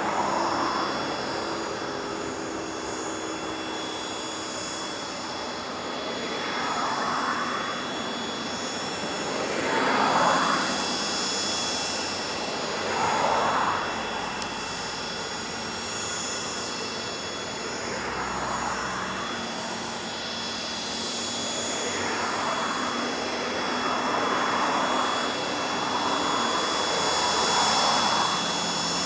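Cessna 750 Citation X's Rolls-Royce AE 3007 turbofan engines running at low power: a steady high whine, with swells of rushing jet noise every few seconds.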